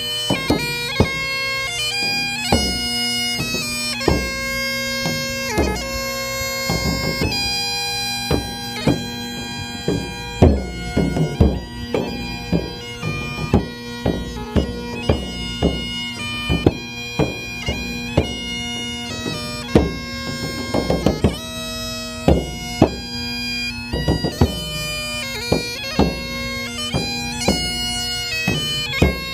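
Bagpipe playing a melody over a steady drone, with drum strokes beating throughout.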